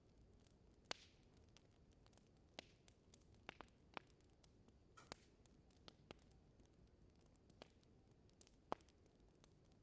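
Wood fire in a fireplace crackling softly, with irregular sharp pops and snaps over a faint low hiss, the loudest pops about a second in and near the end.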